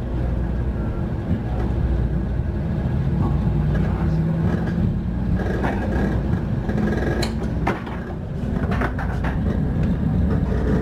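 Inside a Shinkansen bullet train pulling out of a station and picking up speed: a steady low rumble and hum from the running gear and motors, with a few sharp clicks.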